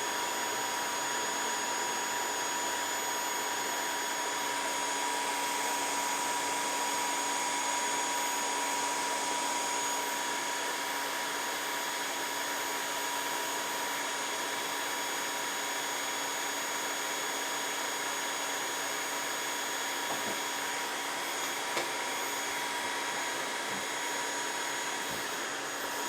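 Dreame H11 Max cordless wet-dry vacuum running its self-cleaning cycle in its base: the suction motor runs steadily with a whine while the roller brush spins and is flushed with clean water. A few faint ticks come near the end.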